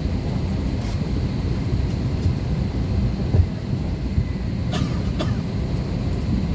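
Steady low rumble and hum inside an Airbus A320 cabin, with a faint high whine from the aircraft's air systems. A short low thump comes about three and a half seconds in, and there are two faint clicks around five seconds.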